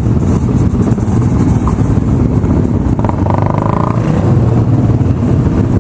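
Motorcycle engines running loudly and steadily, with a brief higher-pitched tone about three seconds in.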